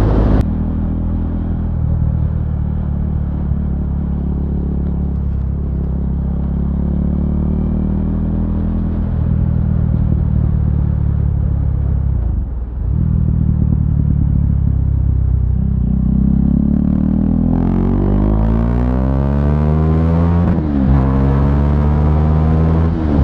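2017 KTM Duke 390's single-cylinder engine running through a loud SC Project aftermarket exhaust while riding. It runs fairly steadily at first, briefly drops off about halfway, then climbs in revs over the last third, breaking off sharply twice near the end as gears change.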